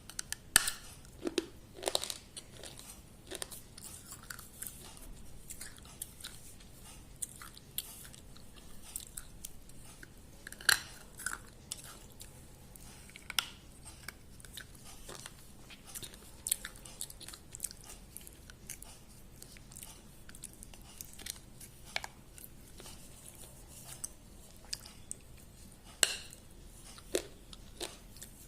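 A person chewing and biting food close to the microphone: irregular crunches and wet mouth clicks, with a few louder bites scattered among them.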